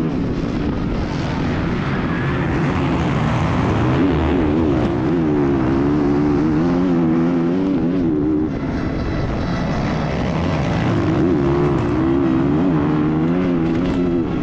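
Motocross dirt bike engine recorded on board, its revs rising and falling over and over as the rider works the throttle, with a short dip in the middle.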